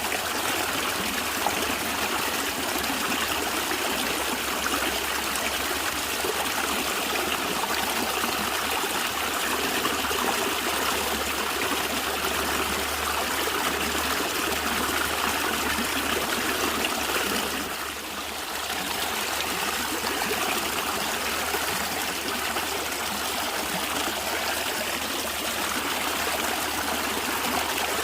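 Natural running water gurgling steadily, like a stream over rocks, with a brief dip in loudness about two-thirds of the way through.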